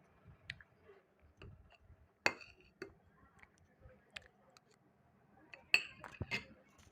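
Utensils clinking against dishware in a few separate sharp strikes, the loudest about two seconds in, with a quick cluster of clinks near the end.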